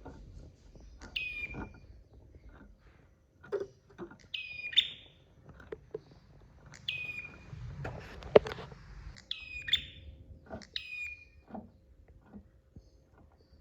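Prinia (prenjak) calling: five short, shrill phrases about two to three seconds apart, each ending in a falling tail, with scattered sharp clicks between them, the loudest click about eight seconds in.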